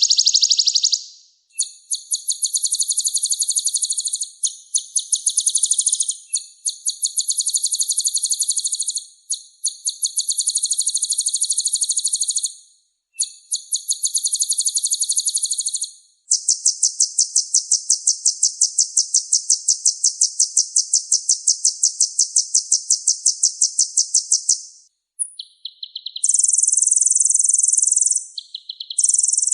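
Kolibri ninja (sunbird) singing high, rapid trills in phrases a few seconds long with short breaks between them. About halfway through comes one long unbroken trill of roughly eight seconds, followed near the end by shorter, varied phrases.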